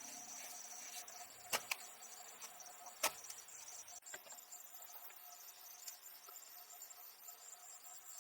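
A steady chorus of insects chirring, with three sharp clicks or knocks: two close together about one and a half seconds in, and the loudest about three seconds in.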